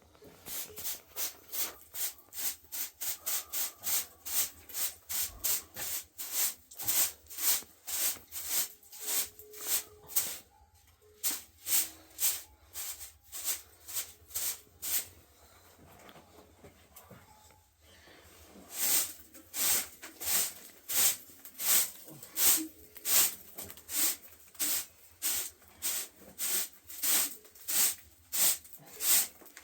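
Rhythmic scraping strokes, about two a second, stopping for several seconds in the middle and then starting again.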